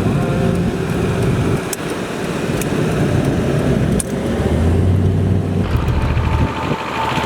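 Car engine running with road noise while driving. About four seconds in, a deeper engine drone swells for a couple of seconds.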